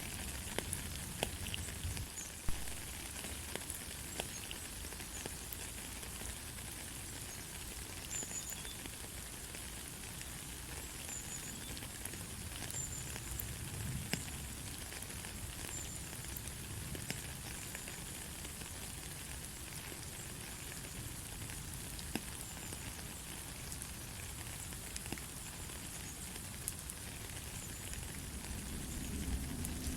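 Steady light rain falling, an even hiss with many scattered individual drop ticks and patters on a surface, no thunder.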